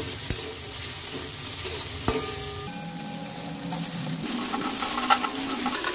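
Boiled, chopped chicken frying in a little oil in a hot kadai, sizzling steadily while it is stirred, with a few sharp knocks of the stirring utensil against the pan.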